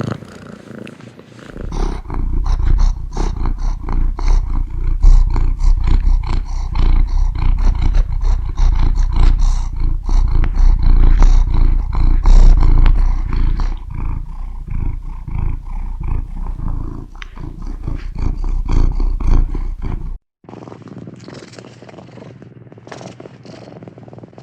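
Domestic cat purring close to the microphone: a loud, deep, rhythmic rumble that cuts off suddenly about twenty seconds in, followed by a quieter, different sound.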